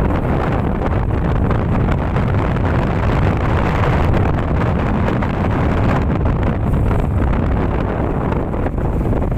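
Strong wind buffeting the microphone on a ro-ro ferry at sea: a loud, steady rush with no breaks, heaviest in the low end.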